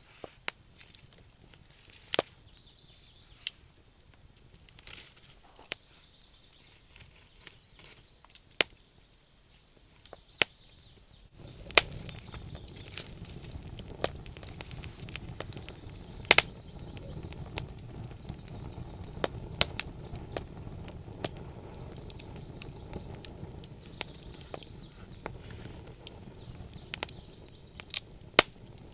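Wood fire in a stove crackling, with sharp scattered pops. About a third of the way in a steady low rumble sets in under the crackling.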